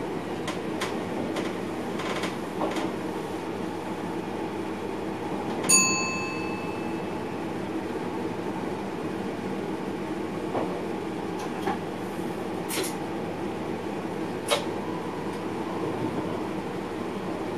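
Running noise of a moving train heard inside the driver's cab, steady, with scattered light clicks and knocks. About six seconds in, a single sharp metallic ding rings out briefly.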